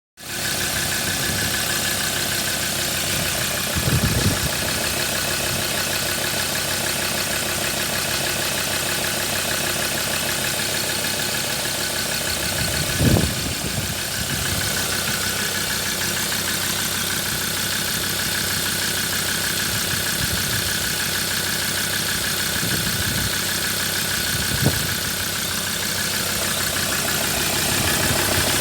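Ford Ranger 3.2-litre five-cylinder turbo-diesel engine, with about 187,000 km on it, idling steadily. A few brief low thumps sound over it.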